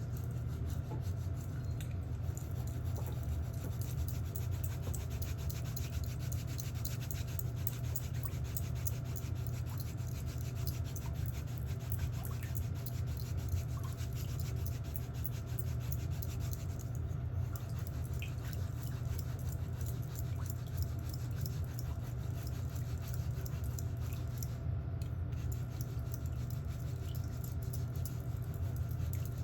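Electric nail drill (e-file) running steadily with a low motor hum, its bit grinding down a thickened, fungus-affected toenail with a fine scratchy scraping.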